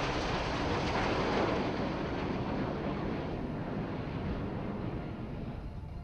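Jet aircraft noise passing overhead and fading away: a loud, even rush that peaks about a second in, then loses its high end and slowly dies down.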